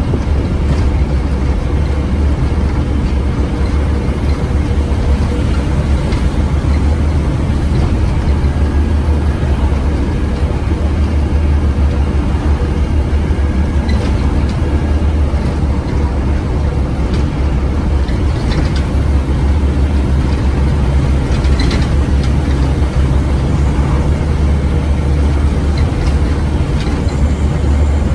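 Scania OmniCity single-deck bus running, with a steady deep engine drone, occasional light rattles, and twice a faint high whine that rises in pitch.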